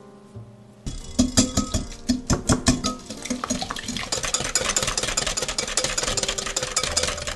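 Small electric kitchen appliance motor running as it mixes ingredients: irregular knocking for the first couple of seconds, then a steady rattling whir that cuts off abruptly at the end.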